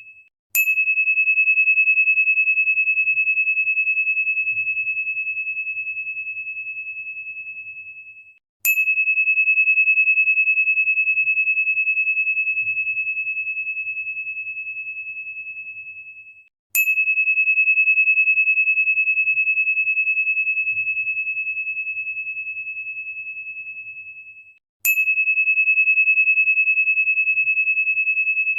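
A single high, pure ringing tone, like a crystal chime or tuning fork, struck four times about eight seconds apart. Each strike starts with a sharp tick and fades slowly. A faint low hum lies underneath.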